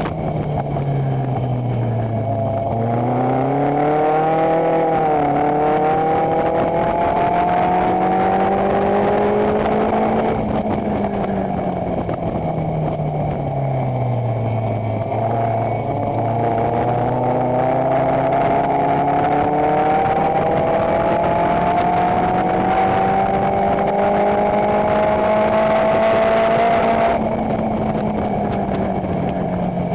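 Chevron sports car's engine running hard under racing load, heard from its open cockpit. The pitch sinks as the car slows about three seconds in and again about fourteen seconds in, and otherwise climbs steadily through long pulls.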